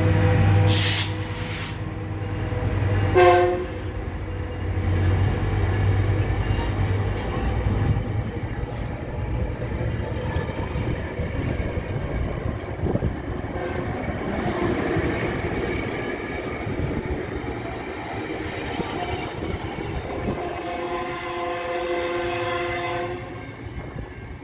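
Metrolink commuter train running with a low rumble, its horn sounding briefly about three seconds in and again for about two seconds near the end.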